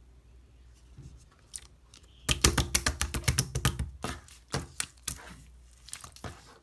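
Clear slime being pressed and worked by hand, making sticky popping clicks: faint at first, then a quick dense run of sharp pops a little over two seconds in, thinning to scattered pops.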